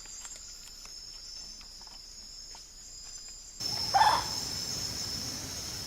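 Steady high-pitched drone of night insects, crickets among them. About four seconds in, a single call from a nocturnal owl sounds once over the insects.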